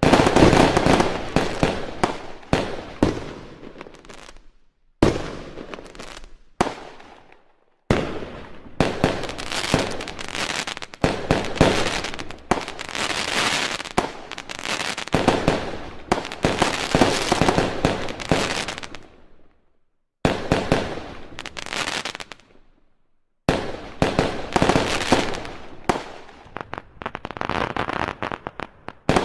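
Fireworks going off in rapid volleys of bangs and crackling, broken by a few short pauses.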